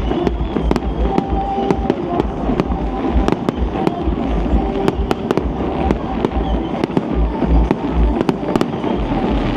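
Aerial fireworks going off in a display: a rapid run of sharp cracks over a continuous deep booming, with background music.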